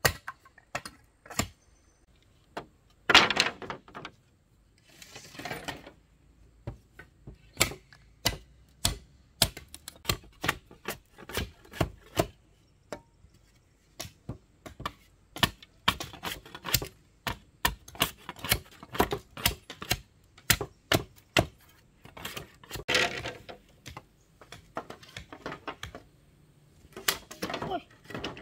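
An irregular run of sharp knocks and taps, sometimes several a second, with a few brief stretches of voice in between.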